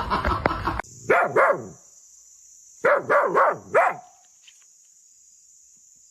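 Dog barking: two barks about a second in, then four more in quick succession, each bark falling in pitch.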